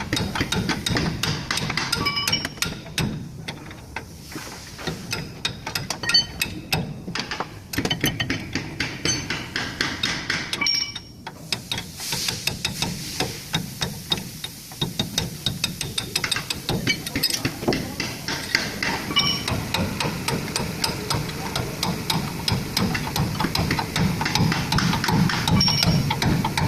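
A hammer striking metal over and over, in a quick run of blows with a short metallic ring after each. These are hammer blows during the replacement of a truck torque rod's rubber bushing.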